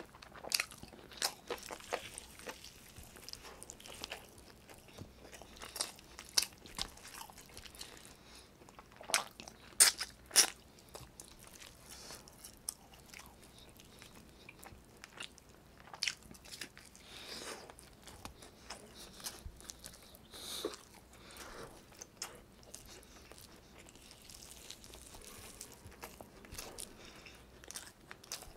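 Close-miked eating sounds of chicken adobo and rice eaten by hand: chewing and mouth noises with fingers pulling at the chicken, heard as irregular short clicks. The loudest come about nine to ten seconds in.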